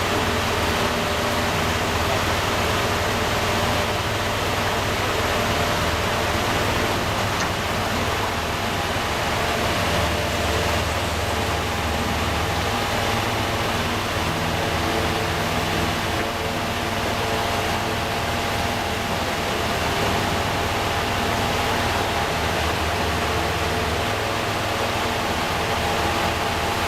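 Steady machine noise, like an engine or motor running continuously, with a low hum and a few faint steady tones.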